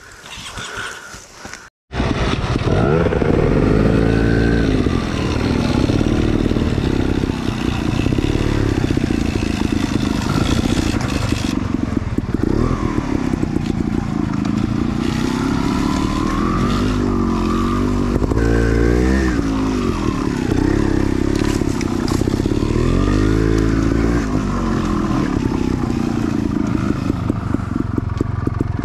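Enduro dirt bike engine running hard off-road, its pitch rising and falling again and again as the throttle is opened and closed, with clatter and scraping from the bike. It cuts in suddenly about two seconds in, after a moment of silence.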